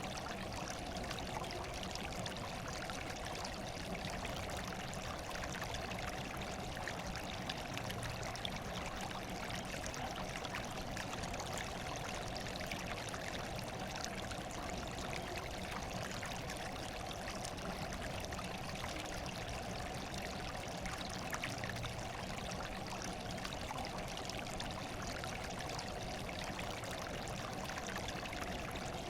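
Running water trickling and splashing steadily, with no change in level.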